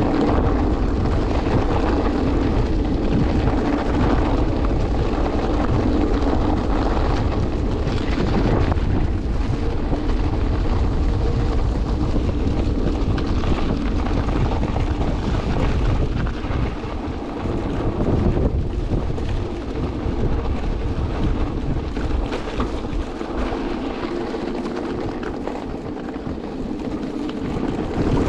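Wind buffeting the microphone during a ride on an electric vehicle in a snowstorm, with a steady hum running under the rumble. It eases slightly about halfway through.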